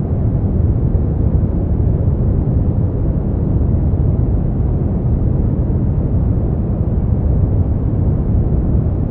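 Steady brown noise: an even, deep rumbling hiss, strongest in the bass and fading out toward the treble, with no change at all.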